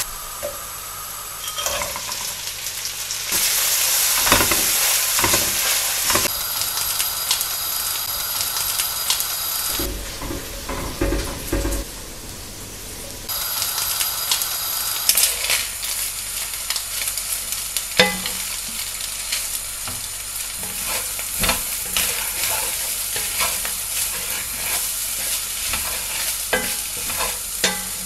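Chopped onion, garlic and butter sizzling in an enamelled pan, then rice and mixed vegetables frying, with a wooden spatula scraping and knocking against the pan as it is stirred. The sizzle jumps abruptly in level several times where separate takes are spliced together.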